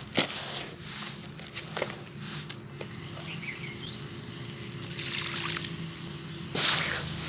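Crumbled sand-cement pieces breaking up in water, with a steady trickling fizz. A couple of sharp cracks come in the first two seconds, and a sudden louder burst of crumbling comes near the end.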